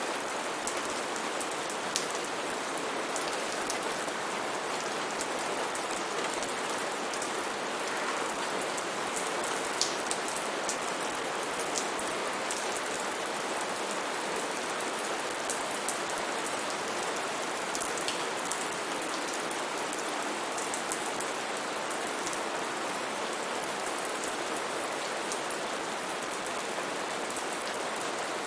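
Steady heavy rain falling through rainforest, a continuous hiss with the sharp ticks of individual drops striking nearby leaves and surfaces.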